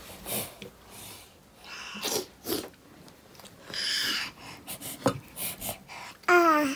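Close-up breathy sniffs and snorts from people eating, several short bursts of breath, with a brief wavering voiced sound near the end.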